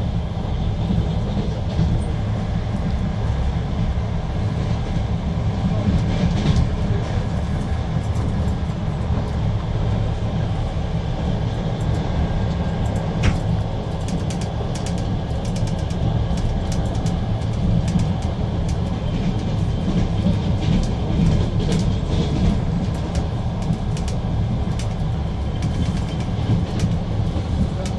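Passenger train carriage in motion, heard from inside: a steady low rumble of wheels on rails. Scattered sharp clicks and rattles run over it, more frequent in the second half, with one louder click about halfway.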